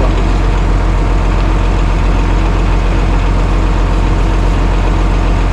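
An engine idling steadily, a loud low rumble that does not change.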